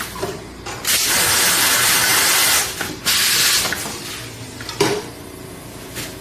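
Automatic tea packaging machine cycling: a loud hiss of air lasting nearly two seconds, then a second, shorter hiss, with sharp mechanical clicks before and after.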